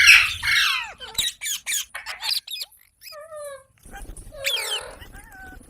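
Pet green parrot calling. A loud harsh screech at the start is followed by a quick run of sharp chirps, a few short whistled calls gliding up and down, and another harsh screech near the end.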